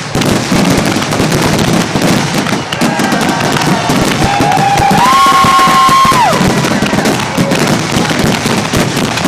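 Fireworks grand finale: a dense, unbroken barrage of rapid bangs and crackling. About five seconds in, a held whistle-like tone steps up in pitch over the barrage, then falls away.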